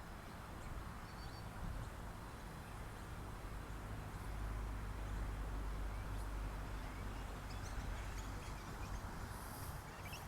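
Steady outdoor background noise with a low rumble and a few faint, short, high chirps.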